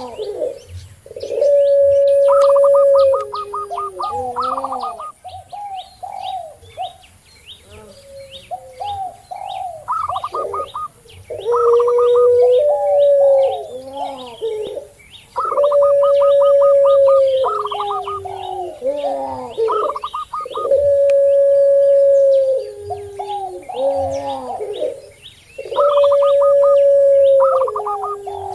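Doves calling together: a puter pelung, a zebra dove (perkutut) and a spotted dove (tekukur). Long held coos come about every four to five seconds, with quicker stuttering and rolling coos between them, over steady high chirping of small birds.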